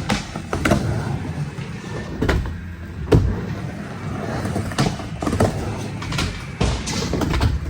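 Skateboard rolling back and forth on a mini ramp: a steady low rumble of the wheels, broken by sharp clacks of the board and trucks hitting the ramp and coping every second or so.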